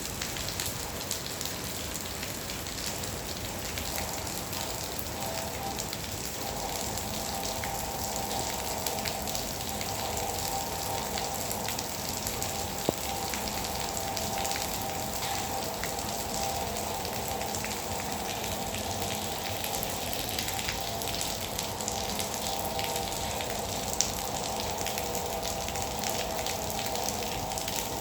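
Light drizzle pattering steadily, a fine continuous hiss of many small drops, with two sharper single drop hits along the way. A faint steady hum of a few tones runs underneath.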